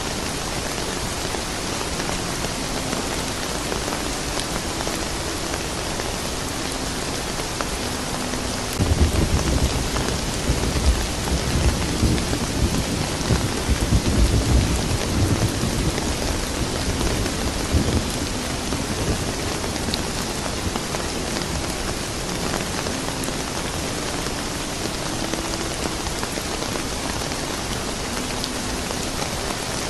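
Steady rain falling, with a low rumble of thunder rolling in about nine seconds in and fading out about nine seconds later.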